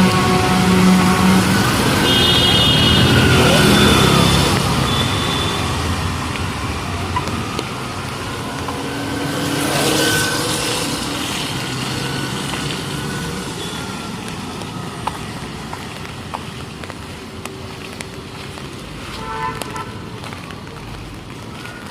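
City street traffic: motor vehicles passing close by, loudest at the start and fading, with a horn tooting a few seconds in and another short horn near the end.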